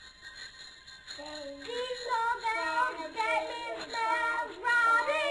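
A high, child-like voice singing a melody over light background music, coming in about a second in.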